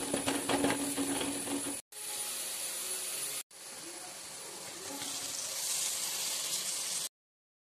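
Onions and spices sizzling in a hot metal kadai, with a spoon scraping and stirring in the first two seconds over a steady low hum. The sizzle breaks off twice briefly and stops about a second before the end.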